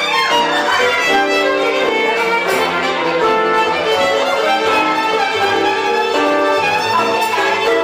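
Live band music, a violin playing a melody of long held notes with a slide in pitch near the start.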